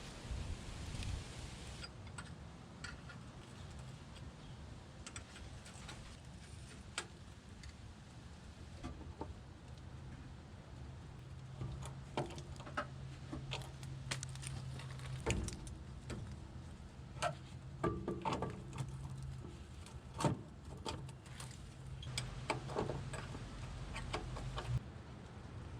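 Scattered light metallic clicks and clinks of hand work on the truck, busier in the second half, over a faint steady low hum.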